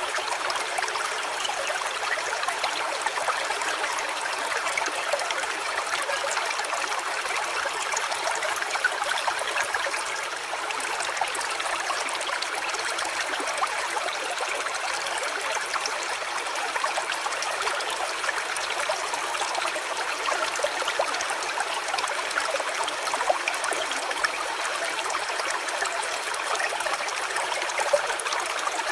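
A small stream trickling and babbling steadily over stones, an even water sound with no change in level.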